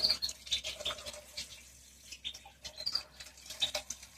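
Water splashing and pattering as a removed washing machine part is rinsed by hand, with small knocks of handling. Birds give short high chirps in the background.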